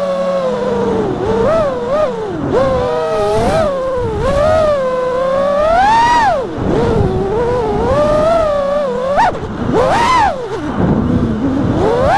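FPV racing quadcopter's brushless motors whining, the pitch swooping up and down with throttle and climbing sharply to high peaks about six and ten seconds in.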